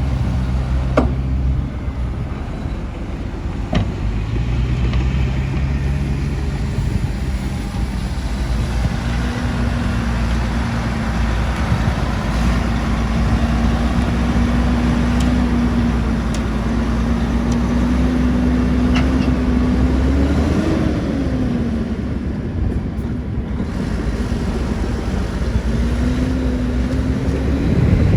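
Heavy diesel engines of earthmoving machines running steadily at a site, with engine pitch rising briefly twice as a machine revs, near two-thirds of the way through and at the very end. A couple of sharp knocks in the first few seconds.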